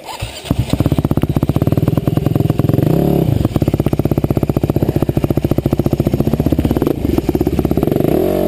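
Husqvarna four-stroke single-cylinder enduro motorcycle engine starting about half a second in, then running with a steady beat of distinct firing pulses. The throttle is blipped briefly about three seconds in and again near the end as the bike pulls away.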